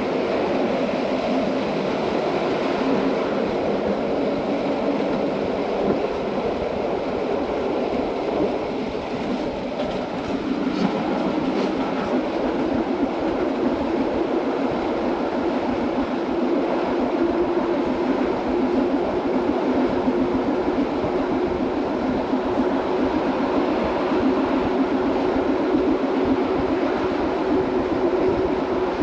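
Metre-gauge GoldenPass Line train running along the track: a steady rumble of wheels on rail. A low hum grows stronger a little past halfway.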